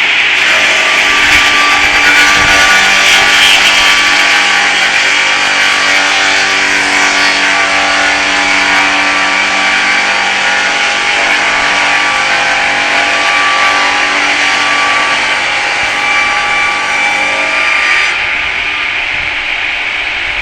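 Homemade circular sawmill cutting an oak log, with the blade's steady whine and the rasp of the cut over the hum of its 11 kW motor. The sound thins and drops slightly about eighteen seconds in.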